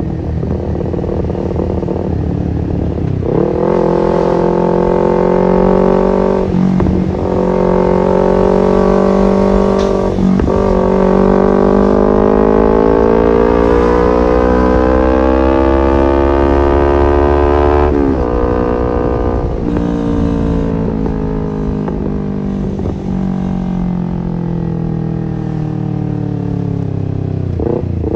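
Kawasaki Ninja 250fi parallel-twin engine through an R9 H2 SS aftermarket exhaust, accelerating through the gears: revs climb sharply, dip briefly at two gear changes, then rise in one long pull. The throttle then closes suddenly, the engine runs lower and steadier, and it revs up again near the end.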